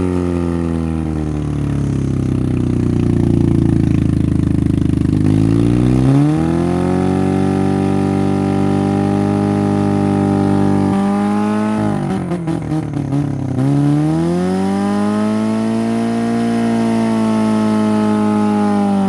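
Honda Civic four-cylinder engine running and revving up and down while being fed concrete mix to kill it. It runs rough for a few seconds, stumbles about two-thirds of the way in, picks up again and winds down near the end.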